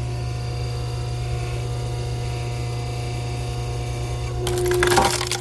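Log-splitting machine running with a steady hum, and a louder, noisier burst near the end.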